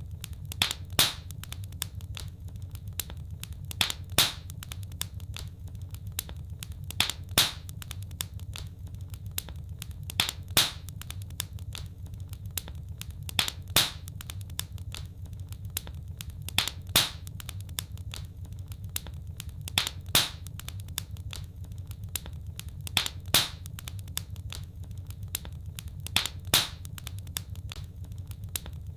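Fireplace wood fire crackling: sharp pops, mostly in close pairs, about every three seconds over a steady low rumble.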